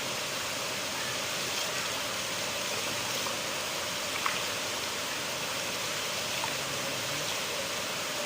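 River water flowing in a steady, even rush, with a few brief splashy ticks, one about halfway through.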